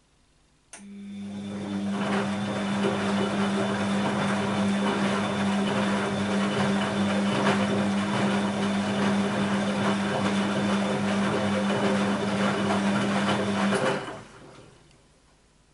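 Bosch WAB28220 washing machine switching on with a click and running with a steady hum and rushing noise for about thirteen seconds, then cutting off, partway through its quick wash program.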